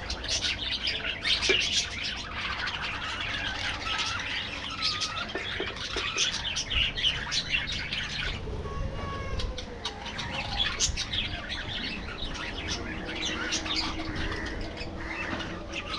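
A flock of budgerigars chattering, many short chirps and warbles overlapping continuously, thinning out briefly about halfway through.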